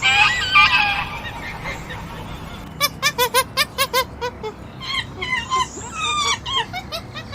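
Birds calling: a burst of calls at the start, a quick run of short, repeated calls a few seconds in, then more calls that slide up and down in pitch.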